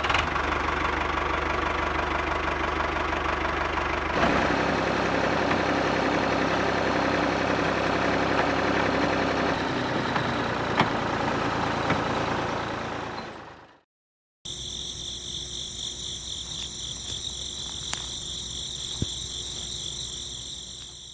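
Small electric motor of a DIY model running with a steady hum. After a short break near the middle it gives way to a quieter, higher-pitched whir.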